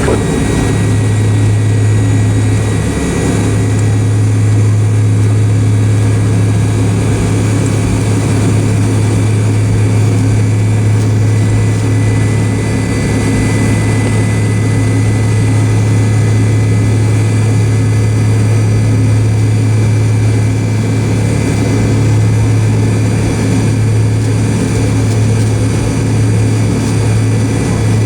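Steady drone of a McDonnell Douglas MD-88 airliner's rear-mounted Pratt & Whitney JT8D turbofans heard inside the passenger cabin: a strong low hum with a thin, steady high-pitched whine over it, holding an even level.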